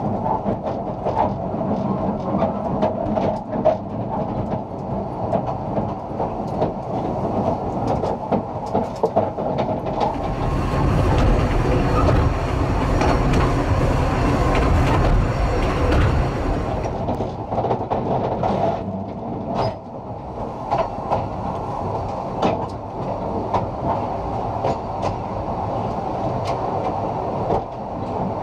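Wheels of a 2 ft 3 in narrow-gauge passenger coach running along the track: a steady rumble broken by irregular sharp clicks as they cross the rail joints. For several seconds near the middle a louder low rumble and hiss rises over it, then falls away.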